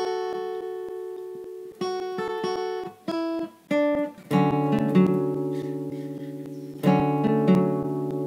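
Music: an acoustic guitar playing ringing plucked notes and chords, with a few short single notes about three seconds in before fuller, louder chords take over.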